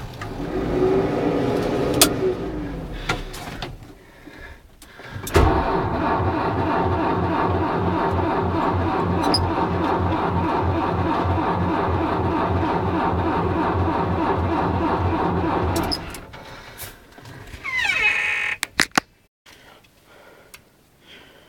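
Diesel engine of an MB trac tractor turning over slowly on its starter in deep cold, with a steady rhythmic chug of a few compression pulses a second for about ten seconds that then stops. A shorter whirring burst, rising and falling in pitch, comes before it.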